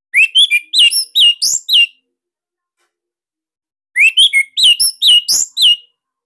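A songbird singing two quick phrases of about seven sharp, slurred whistled notes each, rising and falling, with a two-second gap between them.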